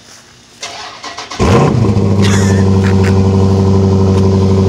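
Dodge Challenger's engine starting from cold in freezing weather: it catches about a second and a half in with a short flare, then settles into a steady idle.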